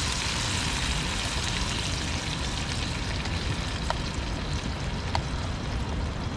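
Tomatoes frying with bacon in a pan on a camping stove: a steady sizzle with a couple of small pops.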